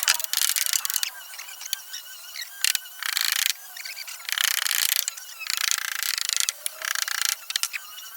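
Repeated rasping strokes of a hand tool on wood: five strokes, each about half a second to a second long, with short pauses between them.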